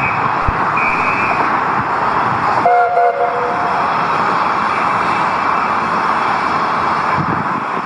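Hunslet Austerity 0-6-0ST saddle tank locomotive's steam whistle sounds once for about a second, roughly three seconds in, over a loud steady rush of noise. Two short shrill whistle notes come in the first second and a half.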